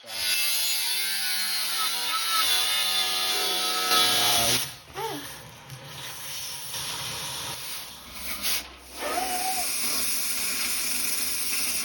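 Power tool cutting the snowmobile's exhaust pipe, a steady hissing whine that wavers in pitch and breaks off briefly twice.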